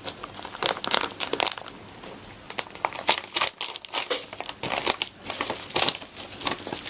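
MRE ration pouch being crinkled and torn open by hand, a string of irregular, sharp packaging rustles.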